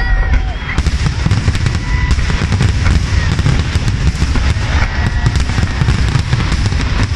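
Aerial fireworks barrage: many shells bursting in rapid, overlapping succession, making a continuous rumble of booms with dense crackling.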